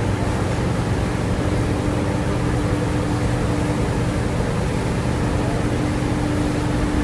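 Cargo boat's engine running steadily: a constant, unchanging drone with a held hum.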